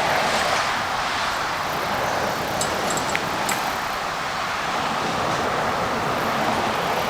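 Steady rushing noise of riding a bicycle along a path beside a highway: air rushing past the phone microphone, mixed with road traffic. A few light clicks come through about two and a half to three and a half seconds in.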